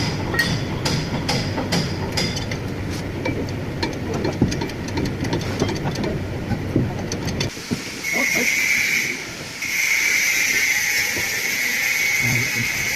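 Metal hammer blows, a few a second, at the start, then clattering workshop noise; from about halfway through a steady hiss takes over, stops briefly, and starts again.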